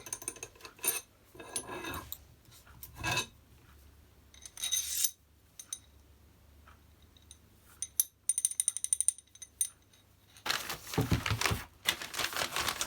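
Metal car parts handled on a bench: scattered clicks and knocks as a long hub bolt carrying a rubber bush is worked in a rear hub. About eight seconds in comes a quick run of rattling clicks, then louder handling noise near the end.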